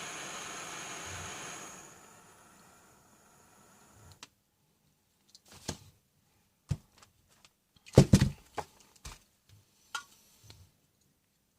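Gas soldering iron being refilled with butane: a steady hiss of gas that fades out about two seconds in, followed by scattered handling clicks and knocks, the loudest cluster about eight seconds in.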